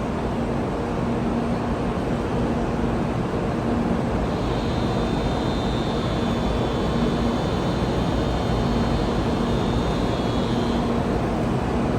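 Steady running rumble of a moving vehicle, with a faint high whine that sets in about four seconds in and fades near the end.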